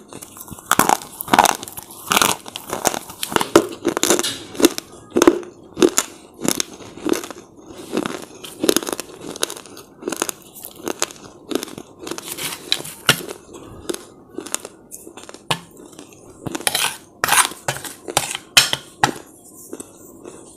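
Close-miked crunching and chewing of brittle slate chips, a long irregular run of sharp crunches with short pauses between bites.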